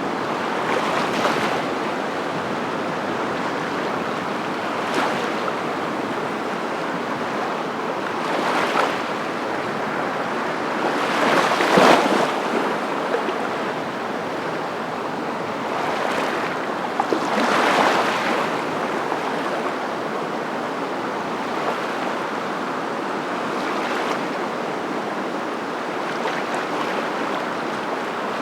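Waves washing in: a steady rush of surf noise that swells every few seconds as waves break, the biggest about twelve seconds in.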